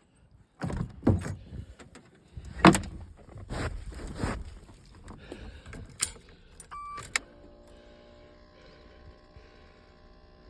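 Irregular clunks and rattles, like a vehicle door and keys being handled, for the first few seconds. Then a sharp click, a short steady beep ending in another click, and a faint steady hum.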